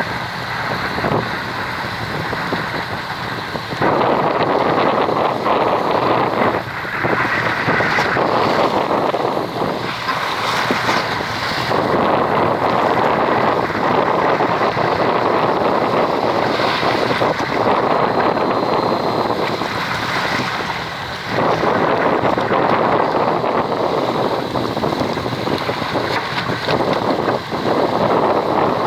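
Wind buffeting the microphone on a boat at sea: a loud rushing noise that swells and drops every few seconds.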